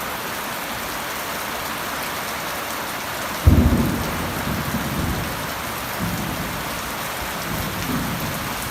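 Steady rain during a thunderstorm. About three and a half seconds in, a sudden thunderclap breaks in and rumbles on for a couple of seconds, with fainter rumbles later.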